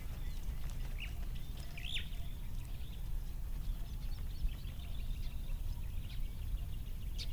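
Small birds chirping in short, scattered calls, the clearest a bit under a second in and about 2 seconds in, over a steady low rumble.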